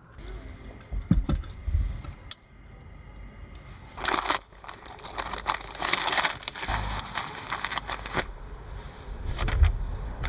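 Crinkling and rustling from about four to eight seconds in, after a few dull knocks near the start, with another knock near the end.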